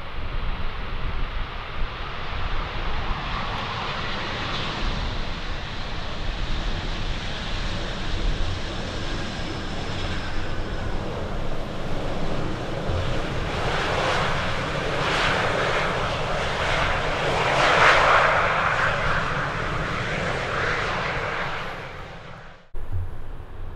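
Jet airliner's engines passing, growing louder to a peak about three-quarters of the way through, over wind buffeting the microphone; the sound cuts off suddenly near the end.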